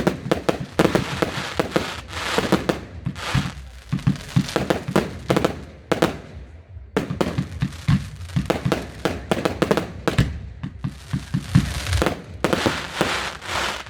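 Fireworks going off in a display: a rapid run of bangs and crackles, many close together, with crackling between them.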